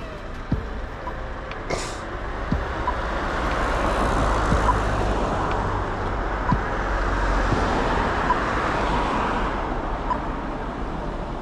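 Road traffic passing: a swell of tyre and engine noise that builds a couple of seconds in and eases off near the end.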